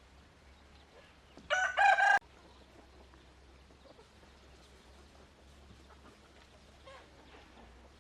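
A rooster crows once, a short call about a second and a half in.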